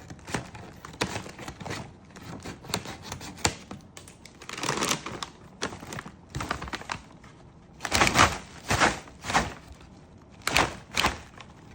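Plastic snack bag crinkling and rustling as it is handled and opened, in irregular crackles with louder bursts about five seconds in and again near the end.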